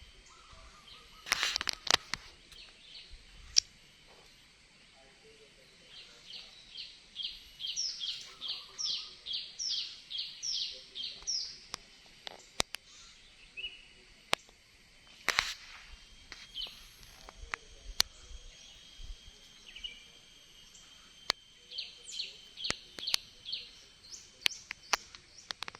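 A songbird singing: runs of quick, repeated down-slurred whistled notes at about two a second, twice, with a few single calls between. Several sharp clicks stand out, the loudest near the start and about halfway through.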